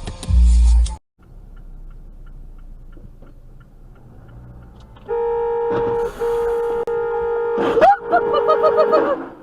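A car horn blares in a long steady blast with two brief breaks, then sounds in quick short pulses near the end. Just before the pulses a brief rising squeal cuts through. Before the horn there is only quieter steady road noise.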